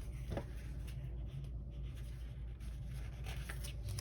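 Pen writing on planner paper: faint, light scratching strokes.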